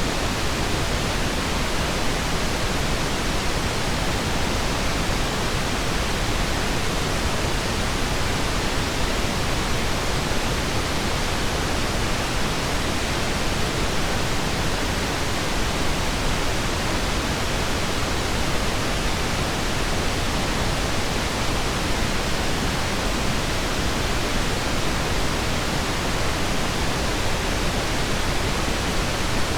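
Steady, unchanging synthetic pink noise: a smooth, even hiss.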